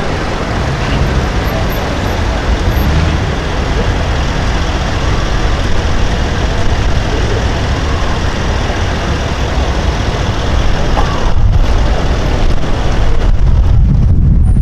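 Loud, steady street traffic noise from passing vehicles. The hiss fades somewhat about eleven seconds in, and a low engine rumble grows stronger near the end.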